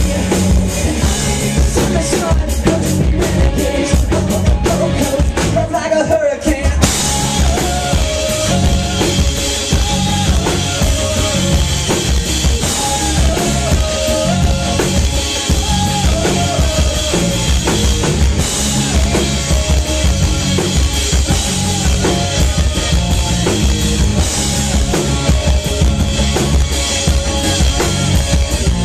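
Live rock band playing an instrumental passage: drum kit with kick and snare, bass, and a lead melody line, with the cymbals crashing in about seven seconds in.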